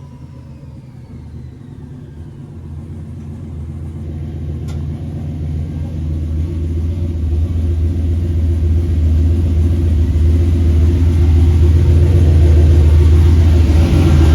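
Turbocharged 5.3-litre LS V8 with a cam running the El Camino on a chassis dyno, growing steadily louder over about ten seconds and then holding loud: a power pull on the rollers. There is one short click about five seconds in.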